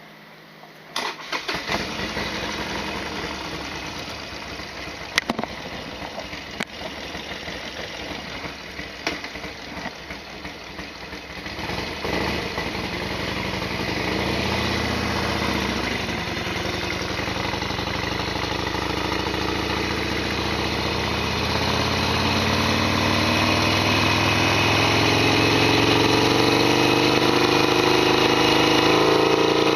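Harley-Davidson Sportster XL1200R's air-cooled 1200 cc V-twin starting about a second in and running at idle, with a few sharp clacks over the first ten seconds. From about twelve seconds in it gets louder, and near the end the revs climb steadily.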